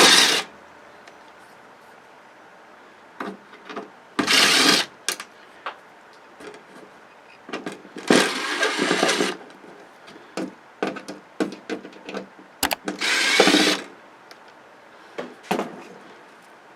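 Power tool running in three short bursts of about a second each, as a television is taken apart, with small clicks and knocks of parts being handled between the runs.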